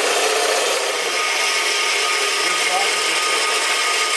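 Bandsaw cutting through stainless steel exhaust tubing: a steady, even rasping hiss with a thin high whine running through it.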